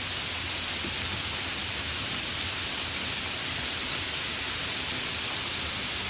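Light rain falling, a steady even hiss of drops with no single drops standing out.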